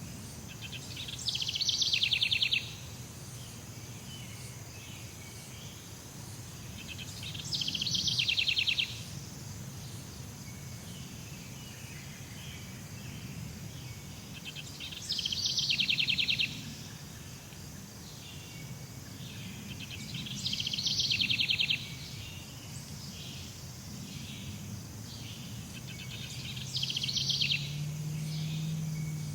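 Jungle ambience: a short, rapid buzzing trill from an animal repeats five times, about every five to six seconds, each lasting about a second and a half, over a steady background hiss and a low rumble.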